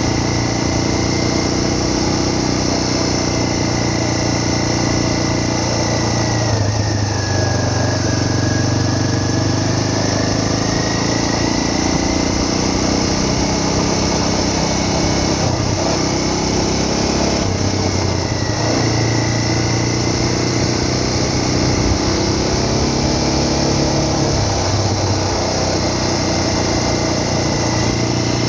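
Vehicle engine running steadily while travelling, with a rushing noise over it. The engine's pitch drops and comes back up about a quarter of the way in and again a little past halfway, as the speed changes.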